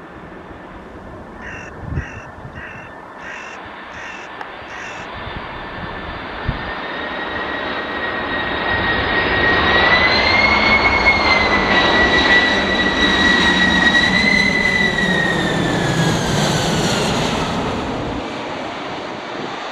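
Boeing 747-400 freighter's four jet engines passing by: a rumble and fan whine that build to a peak about halfway through, then drop in pitch and fade. In the first few seconds a crow caws about six times.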